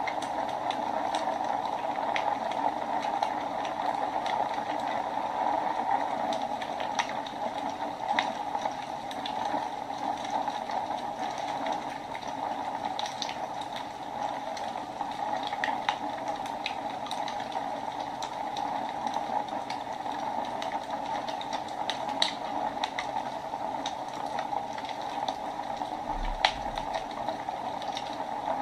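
Wood fire burning in a fireplace: a steady rushing hiss of flames with irregular crackles and pops, one sharper pop a little before the end.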